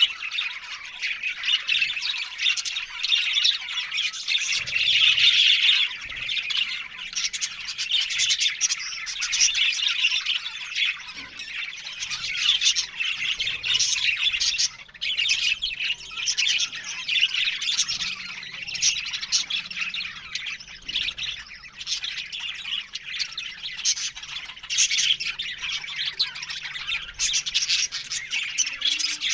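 A colony of budgerigars chattering, with many birds warbling, chirping and squawking over one another without a break.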